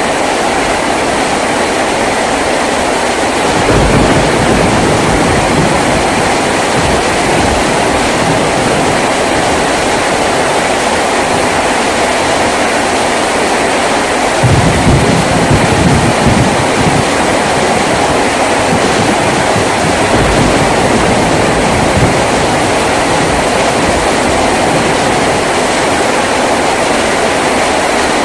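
Heavy rain drumming steadily on a tin roof, a dense even hiss, with deeper rumbling swells of heavier rain or runoff about four seconds in and again from about halfway to two-thirds through.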